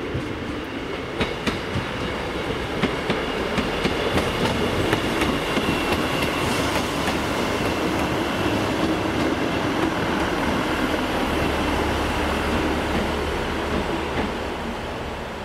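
A train passing, its wheels clacking over rail joints; the sound swells and then fades near the end.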